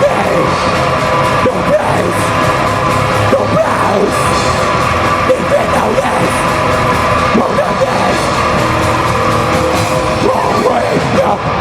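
A rock band playing live at full volume: loud, dense distorted guitars and drums, with a voice yelling over the music.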